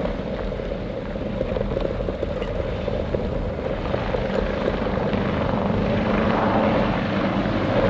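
Firefighting helicopter's rotor and engine running steadily, a low rumble growing gradually louder.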